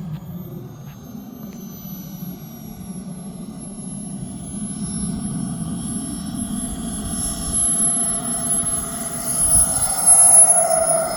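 Swiwin 170 turbine of a BVM F-18 model jet running on a landing approach. Its high whine falls slowly in pitch as it grows louder, loudest about ten seconds in.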